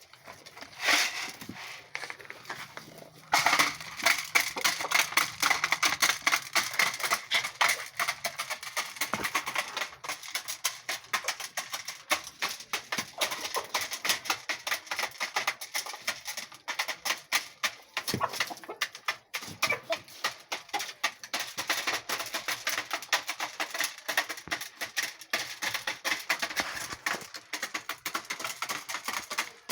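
Chickens pecking corn kernels: a dense, irregular patter of quick beak taps that starts abruptly a few seconds in.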